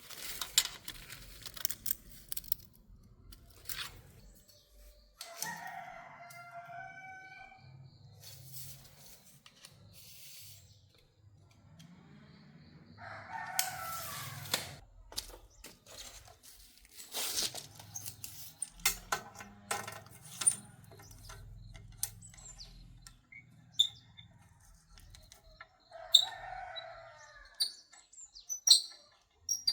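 A rooster crowing three times, each crow lasting about two seconds, with scattered sharp clicks and knocks in between.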